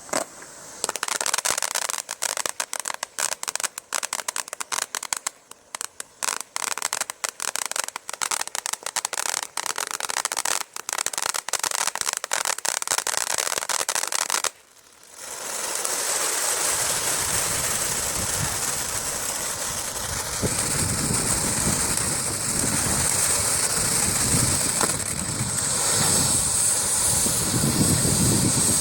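Consumer firework (Cutting Edge Fireworks' True Kings) going off: for about fifteen seconds a rapid, irregular run of sharp crackling pops, then a brief pause and a continuous loud hissing roar with a bright high hiss that lasts to the end.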